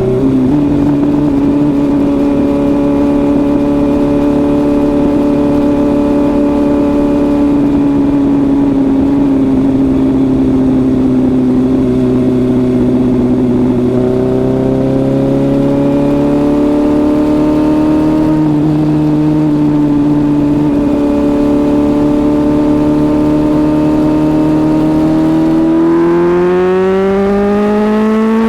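Suzuki GSX-S750's inline-four engine running at a steady road speed, its pitch sagging slowly, then climbing again about halfway through, and rising more sharply near the end as the bike accelerates.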